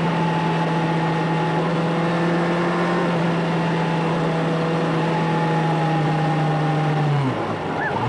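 A motor running at a steady pitch, then dropping in pitch and winding down to a stop near the end.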